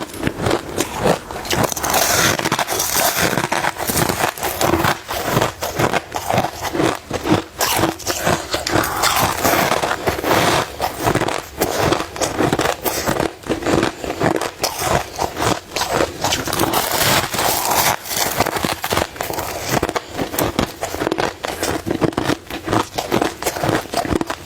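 Crushed ice being bitten and chewed close to the microphone: a rapid, continuous run of sharp crunches and crackles.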